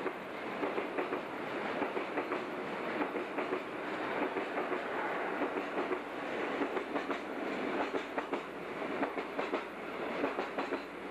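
A freight train of tank wagons rolling past close by: a steady rumble and rattle, with the steel wheels clicking in quick runs over the rail joints.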